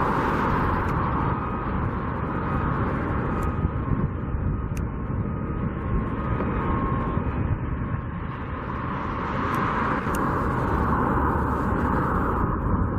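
Steady rumble of passing road traffic, swelling near the start and again about ten seconds in.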